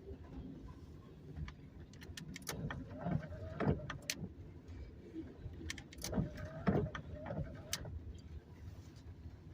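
Freight cars rolling slowly past, their wheels clacking over the rail joints in two clusters of knocks, each with a faint ringing squeal under it, over a low rumble.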